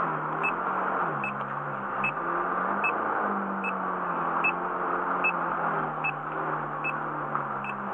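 Ferrari F430's V8 engine idling steadily, with a short high electronic beep repeating about every 0.8 s.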